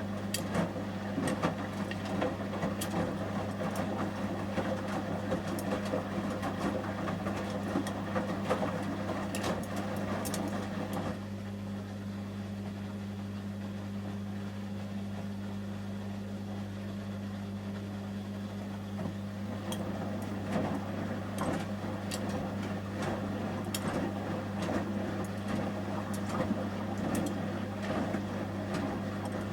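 Samsung Series 5+ front-loading washing machine in the heating stage of a 30 °C wash, its drum turning the wet load. The turning stops about eleven seconds in and starts again about twenty seconds in, over a steady low hum.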